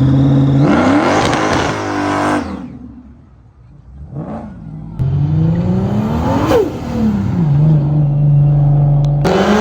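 Car engine being revved: the pitch climbs sharply and falls back about a second in, then after a quieter moment with a short blip it climbs and falls again, settling into a steady run before switching abruptly to another engine sound near the end.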